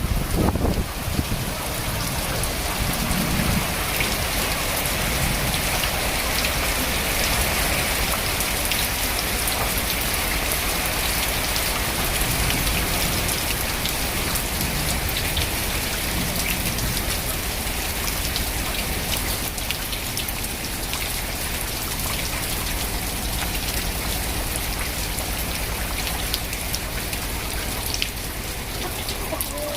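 Heavy rain pouring steadily, a constant hiss of downpour with individual drops ticking on hard surfaces.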